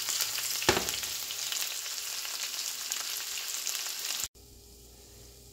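Onions, dried red chillies and freshly added curry leaves sizzling in hot sesame oil in a frying pan, with a single sharp knock about a second in. The sizzling cuts off abruptly about four seconds in, leaving only a faint low hum.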